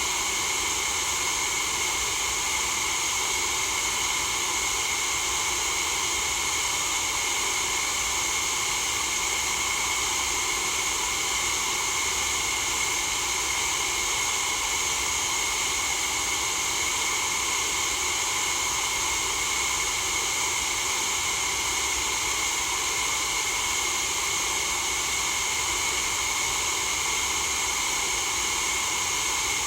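White noise: a steady, unchanging hiss, brightest in the upper range.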